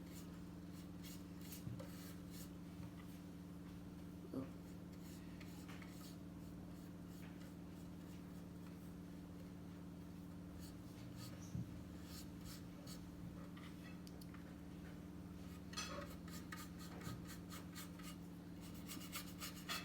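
Faint scratchy strokes of a paintbrush being worked over a birdhouse, coming in scattered small clusters, over a steady low hum.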